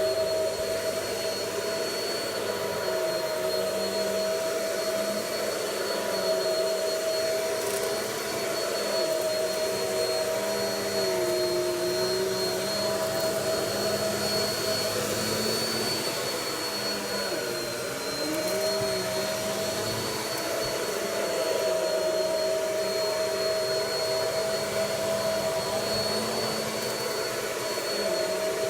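Vacuum cleaner running steadily while vacuuming cornstarch out of carpet, a continuous motor whine that dips briefly in pitch twice near the middle.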